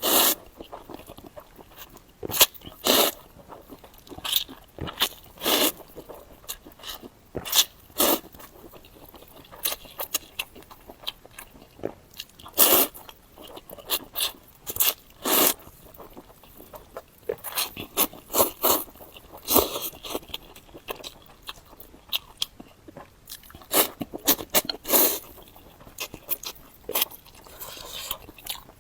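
Close-miked mouth sounds of a person eating spicy Korean fire noodles: chewing and biting in irregular short, sharp sounds, a few a second, with brief quiet gaps.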